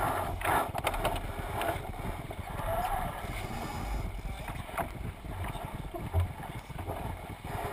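Wind buffeting an open GoPro microphone and water rushing and splashing along the hull of a Thistle sailing dinghy under sail, with a few sharp knocks from the boat.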